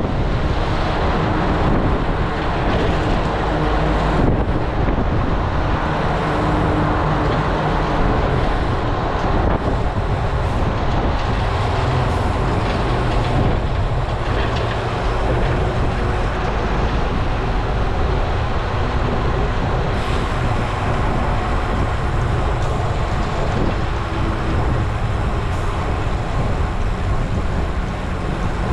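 Steady rush of wind buffeting an action camera's microphone while riding a road bike, with tyre and road noise underneath.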